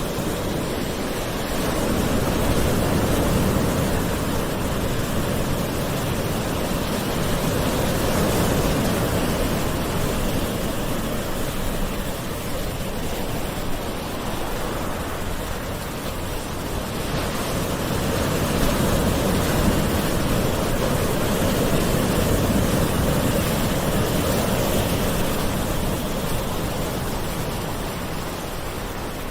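Gentle ocean surf: a continuous wash of waves with slow swells and ebbs in loudness every several seconds.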